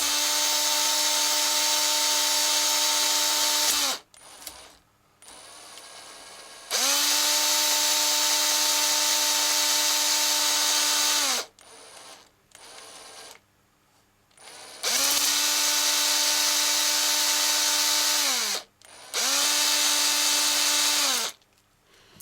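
Cordless drill spinning a three-stone honing head inside an engine cylinder bore, honing the cylinder wall on low speed. It runs in four bursts of a few seconds each with short pauses between them, a steady whine that winds down each time the trigger is released.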